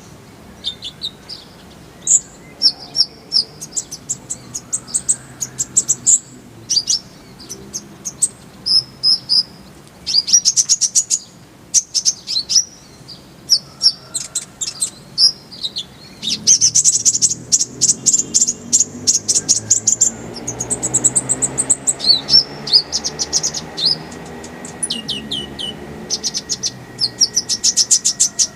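Kolibri ninja sunbird singing continuously: strings of high, thin chirps broken by rapid rolling trills of very fast notes.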